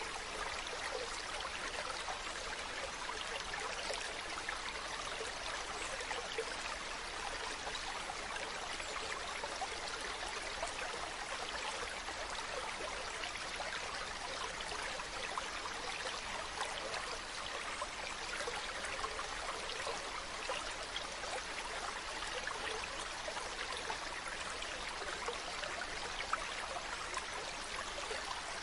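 Mountain stream running steadily, a continuous rushing babble of flowing water.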